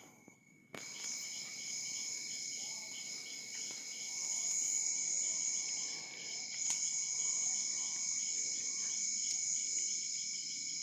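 Crickets chirping in a steady, high, rapidly pulsing trill that starts about a second in, with a few faint clicks.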